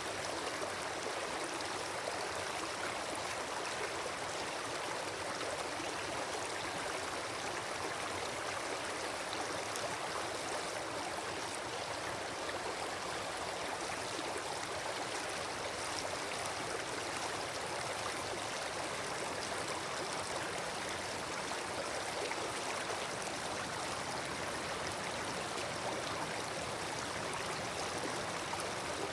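Wood campfire burning, with a steady dense crackle and hiss.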